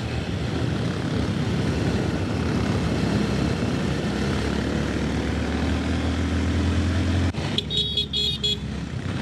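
Small 150cc motorcycle engine running under way, with wind noise on the helmet microphone; the engine note climbs slowly as it accelerates. Near the end the engine note drops away suddenly and a few short horn beeps sound.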